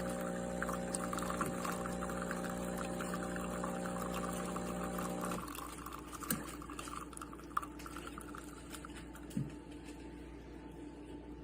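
Espresso machine pump running with a steady hum while liquid streams into a cup; the pump cuts off suddenly about five seconds in, leaving a faint trickle and a few small clicks.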